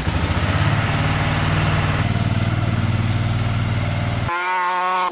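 Kawasaki KLR650's single-cylinder four-stroke engine idling steadily. About four seconds in it cuts off abruptly, giving way to a short warbling pitched tone.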